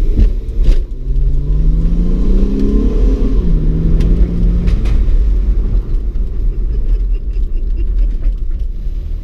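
A 2009 Honda Accord's 3.5-litre J35 V6 breathing through a custom exhaust with dual JASMA chambered mufflers, accelerating. The engine note climbs for about two seconds, then drops to a lower steady pitch a little over three seconds in as it shifts up, over a steady low rumble.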